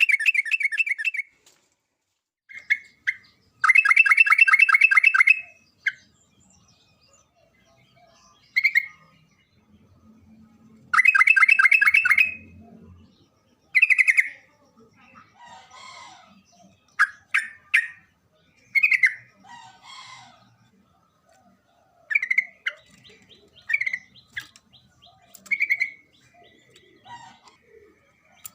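Yellow-vented bulbul singing: three longer bursts of rapid, chattering repeated notes, each about two seconds, near the start, about four seconds in and about eleven seconds in, with short single calls between them.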